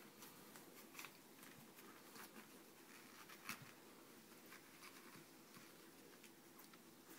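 Near silence with faint, scattered rustles and small clicks, a few slightly stronger about a second, two seconds and three and a half seconds in.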